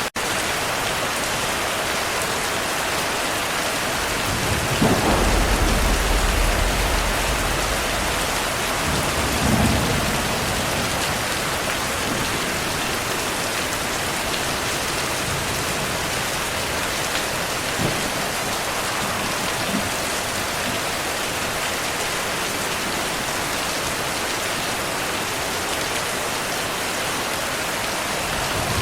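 Heavy rain falling steadily, with a low rumble of thunder about five seconds in that lasts a couple of seconds, a shorter roll of thunder near ten seconds, and a couple of faint cracks later on.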